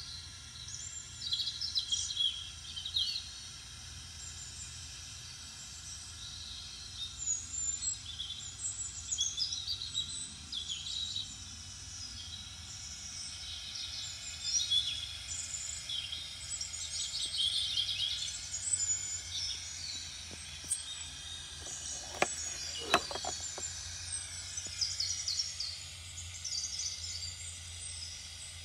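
Small birds chirping and twittering in quick, short calls over a steady low hum, with two sharp clicks about two-thirds of the way through.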